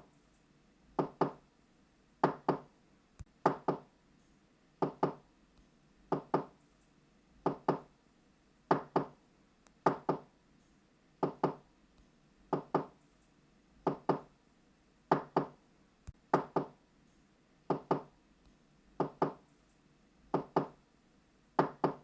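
Knocking on a wooden door, a double knock (knock-knock) repeated steadily about every second and a quarter.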